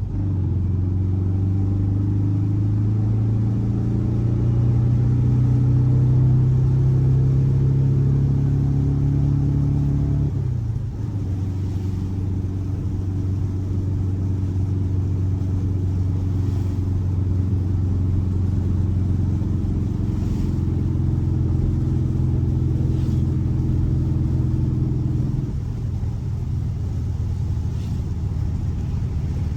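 Air-cooled 1584cc flat-four boxer engine running steadily, its low hum shifting in pitch a few times as the engine speed changes.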